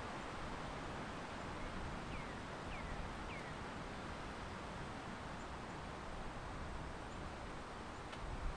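Steady outdoor wind and ambient rush, with three short falling chirps from a small bird about two to three seconds in, and a single sharp click near the end.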